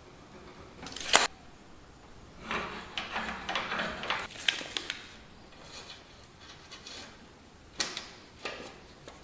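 Workshop handling noises: a sharp knock about a second in, a few seconds of clattering and clicking, then two more knocks near the end.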